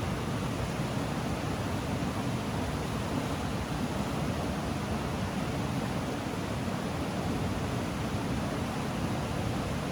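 Flowing river water rushing steadily, an even, deep wash of noise without breaks.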